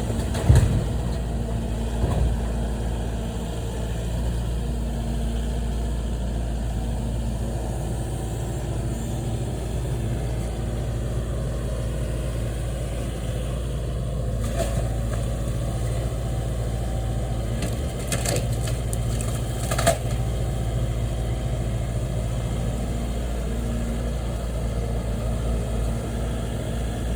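Heavy machinery engine running steadily at a low idle, with a few sharp knocks and clanks of debris now and then, loudest in a cluster near the end.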